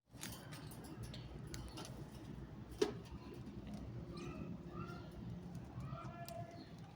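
Parrots making soft short chirps and calls, with scattered small clicks and one sharp click about three seconds in, over a low steady hum.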